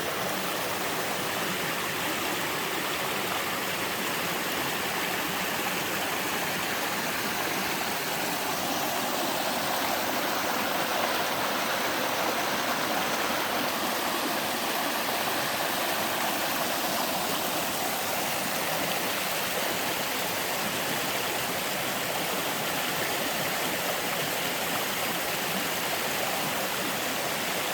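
Two-tier mountain waterfall pouring into a stream: a steady, even rush of falling water, swelling a little around the middle.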